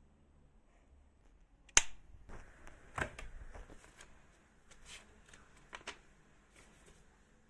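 A sharp click a little under two seconds in, another about a second later, and scattered softer clicks and taps: small objects being handled.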